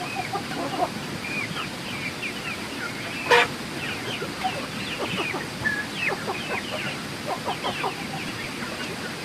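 A flock of laying ducks calling, many short calls overlapping. There is one sharper, louder sound about three seconds in.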